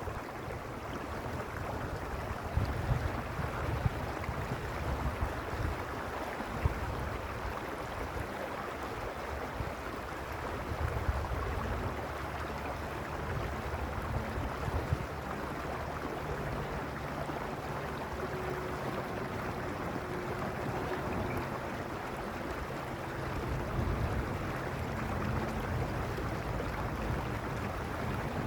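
Mountain stream running steadily, a continuous rushing of water over rocks, with low rumbles that come and go beneath it.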